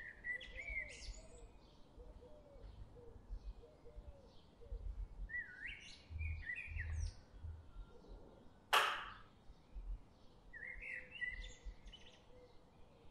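Songbirds singing in three short bursts of quick, sweeping chirps, near the start, in the middle and near the end. About two-thirds through there is one short, loud hiss, with low wind rumble on the microphone underneath.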